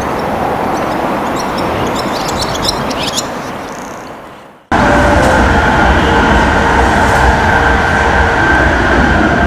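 Train running through a station: its rumble, with a few high clicks, fades out, then after an abrupt cut a louder train rumble runs steadily with a sustained whine.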